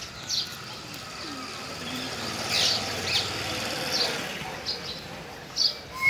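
Small birds chirping in short, high calls, a few at a time, over a steady rumble of passing traffic that swells in the middle and fades again.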